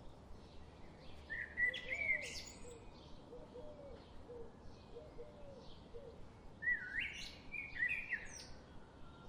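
Birds singing in a forest: two loud phrases of quick, sweeping notes, about a second and a half in and again near seven seconds. Soft, repeated chirping from further off and a faint low call repeating between the phrases run underneath.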